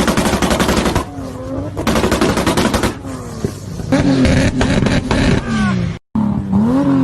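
Toyota Supra's turbocharged straight-six revved in several bursts, its pitch rising and falling, with rapid crackling pops from the exhaust. The sound cuts out briefly about six seconds in.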